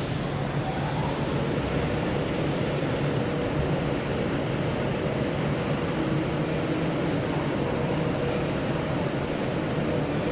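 Steady rumble of a running vehicle, with a high hiss over it for the first three seconds or so.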